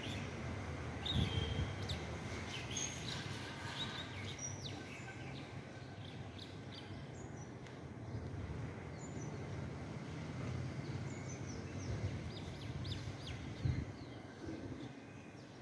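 Birds chirping outdoors in many short, high calls, busiest in the first half and thinning toward the end, over a steady low background rumble. Two brief dull knocks stand out, about a second in and near the end.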